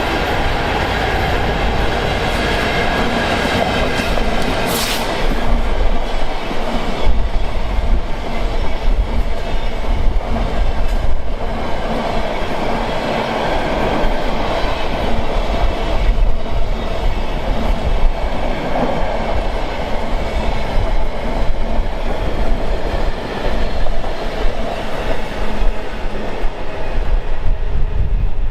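A train running past, its wheels clattering over the rail joints, with heavy wind buffeting the microphone. A brief high squeal sounds about five seconds in.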